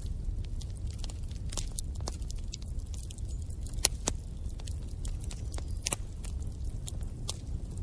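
Wood fire in a fireplace burning and crackling: a steady low rumble of the flames with irregular sharp crackles and pops, two louder pops about four and six seconds in.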